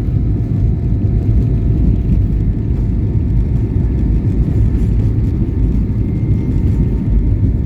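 Loud, steady low rumble of a vehicle under way, with a few faint steady whining tones above it.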